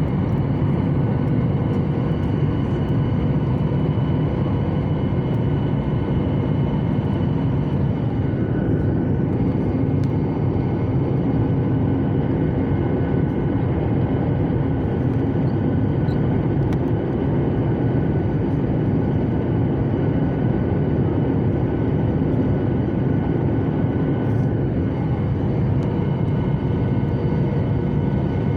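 Steady airliner cabin noise heard from a window seat: jet engines and airflow as a deep, even rumble with a few steady whining tones on top.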